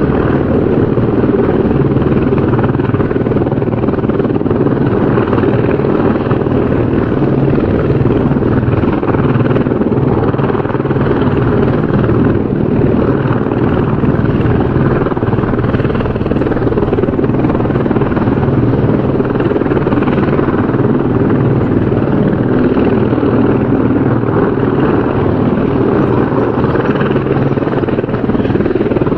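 Helicopter rotor and engine running steadily, a continuous dense low chop of the rotor blades with no change in level.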